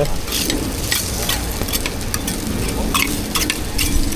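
Food sizzling in oil on a hot street-food griddle, with irregular sharp clicks scattered through it.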